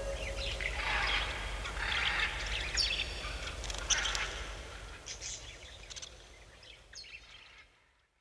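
Birds calling: a few raspy calls and scattered sharp chirps, fading out to silence near the end.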